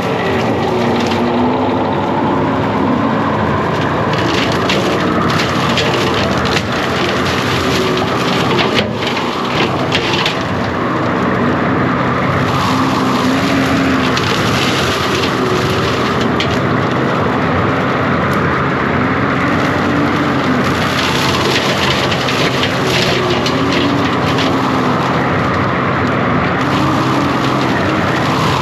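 John Deere 333G compact track loader's diesel engine running under load while its hydraulic cutting attachment clears brush, with a whine that rises and falls every few seconds. Limbs and brush crack and crunch throughout, with one sharp crack about nine seconds in.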